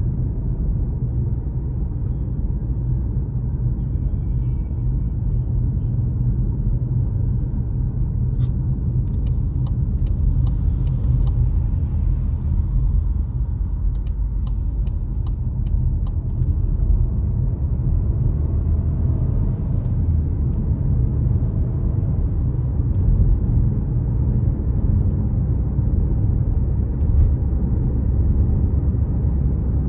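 A car driving along a road: a steady low rumble of engine and tyres, with a cluster of sharp clicks about a third of the way in.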